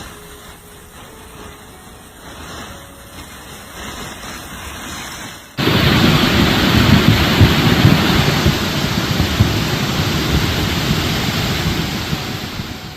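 Rushing floodwater: a quieter steady rush, then an abrupt cut about halfway through to a much louder, deep, steady rush of fast-flowing water that eases slightly near the end.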